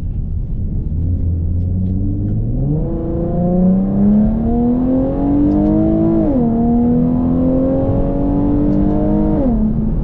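Infiniti G37 coupe's 3.7-litre VQ V6 through a full titanium Tomei exhaust, accelerating hard through the gears. The engine note holds low and steady, climbs sharply about two and a half seconds in, drops at an upshift about six seconds in, then climbs again and drops at another shift near the end.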